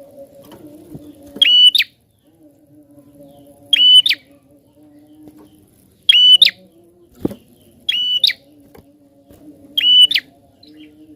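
Prinia (prenjak) giving short, sharp, high whistled calls, five in all at about two-second intervals, over a low steady hum. A single knock sounds about seven seconds in.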